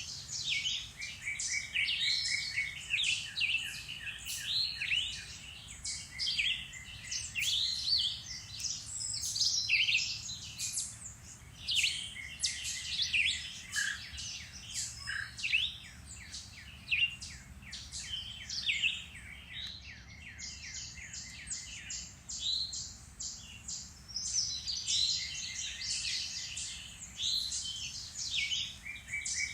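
A chorus of several woodland songbirds singing at once: overlapping chirps, whistles and fast trills of rapidly repeated notes. It thins briefly about two-thirds of the way through.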